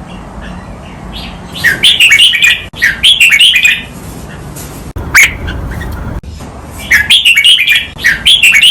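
Red-whiskered bulbul singing: two bursts of quick, bright warbled notes about two seconds each, with one sharp downward call between them.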